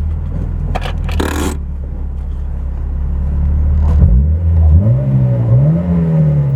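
Car engine running with a steady low hum, then revving up about four seconds in, its pitch climbing, dipping briefly and climbing again as the car accelerates. Two short noisy bursts sound about a second in.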